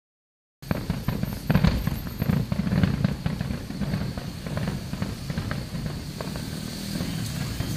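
Distant aerial fireworks display: a rapid run of booms and crackles from bursting shells, densest in the first couple of seconds, then thinning over a steady low background noise.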